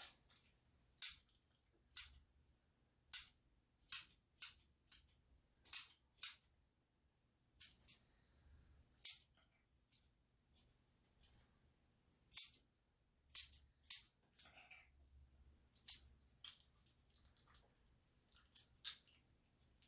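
Grooming scissors snipping a dog's coat: single short, crisp snips at an irregular pace, roughly one a second.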